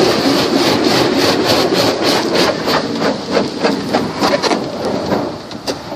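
PDQ ProTouch Tandem soft-touch car wash working over the car, heard from inside the cabin: a dense wash of spray with repeated rubbing and slapping on the body. It dies down near the end.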